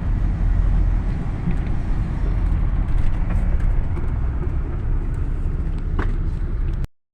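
Steady low rumble of a motor vehicle driving along a road, with engine and road noise, and a short tick about six seconds in. The sound cuts off suddenly just before the end.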